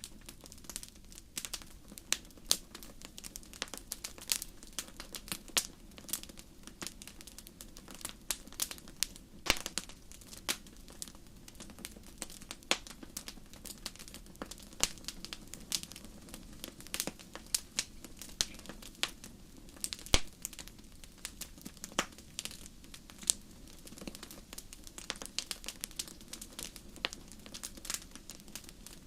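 Wood fire crackling, with a steady run of irregular sharp pops and snaps over a low, even hiss.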